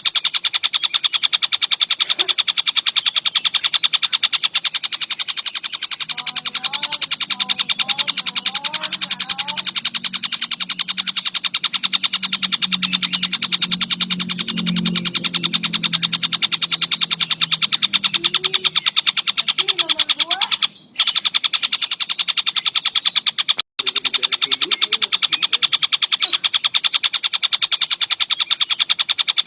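Tengkek buto kingfisher calling in a fast, unbroken chatter of sharp, high notes, many per second. The chatter cuts out briefly twice past the middle, and a faint low hum sits under it for a few seconds.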